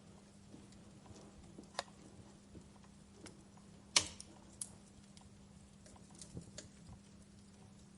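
Wood fire crackling: scattered pops and snaps, the loudest about four seconds in, over a faint steady low hum.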